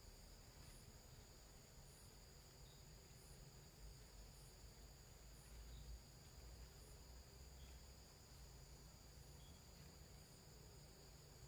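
Faint, steady high-pitched insect chorus of crickets or cicadas: two continuous tones, with a faint tick repeating about once a second above them.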